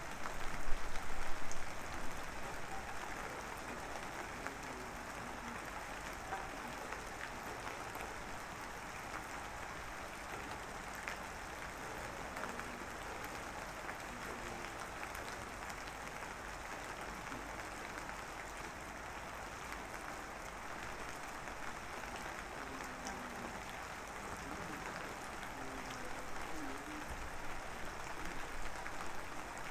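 Steady rain falling: an even hiss of raindrops with scattered faint drips, louder for the first couple of seconds.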